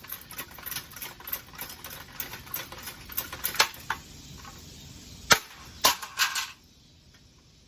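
Sharp cracking hits and rattling clatter of a ceiling fan being smashed apart, with the hardest strikes a little past halfway and near the end, then the sound stops abruptly.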